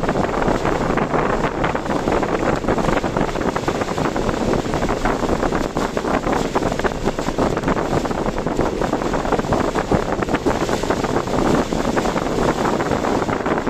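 Steady, loud rushing of strong typhoon wind, buffeting the microphone.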